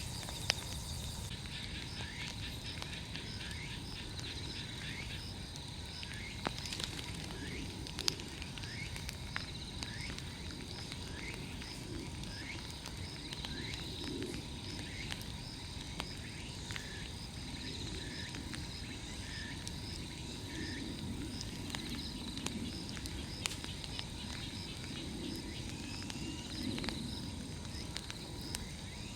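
Large wood bonfire burning, with occasional sharp crackles and pops over a low steady rumble. A high insect trill pulses throughout, and a run of short falling chirps repeats for much of the time.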